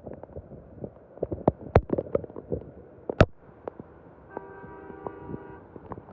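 Rain with irregular sharp taps and thumps close by. A car horn sounds once, steadily, for a little over a second in the second half.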